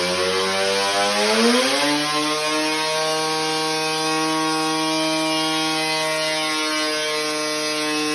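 Rotax 454 two-stroke twin race engine from a Ski-Doo Blizzard 7500 running hard on a dynamometer, through expansion-chamber cone pipes. Its pitch dips, then climbs steeply over about a second and holds steady at high revs under the dyno's load.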